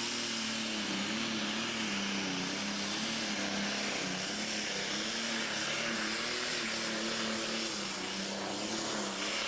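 Engine of a pulling vehicle working at full power on the track: a steady hard-running note whose pitch wavers slightly, over a loud rushing hiss.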